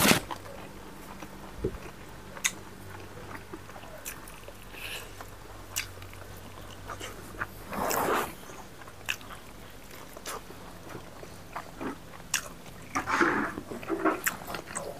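Close-up eating sounds of people chewing rice and pork by hand: scattered wet clicks and lip smacks, with two louder breathy noises, about eight seconds in and again near the end.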